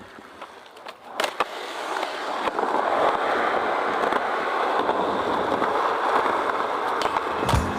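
Skateboard wheels rolling over pavement, a sharp clack about a second in, then the rolling noise growing louder as the board picks up speed.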